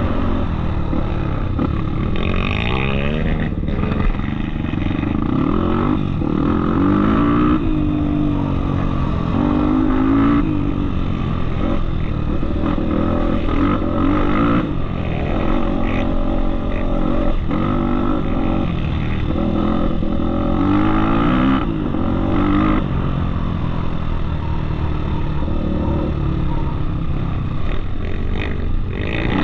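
Off-road motorcycle engine running under load, its pitch rising and falling again and again with the throttle.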